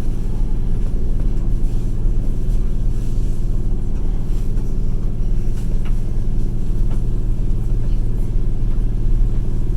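Passenger train running: a steady low rumble of wheels and running gear heard from inside the carriage, with a few faint clicks.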